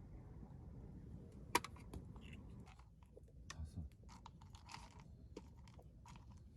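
A sharp click about a second and a half in, then a run of small, irregular clicks and crinkling rustles of things being handled, over a low steady rumble that fades out about two and a half seconds in.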